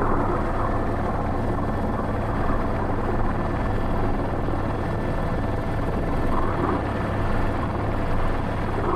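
Airbus H125 (AS350 B3) helicopter's turbine and rotor running steadily, heard from inside the cockpit while it hovers holding a sling load on a long line.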